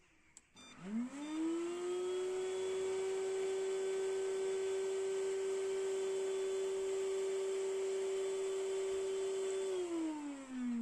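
Changi 3000 W inverter vacuum cleaner switched on with a click, its motor spinning up in a fast rising whine to a steady high-speed run. Near the end it is switched off and the whine falls as the motor winds down.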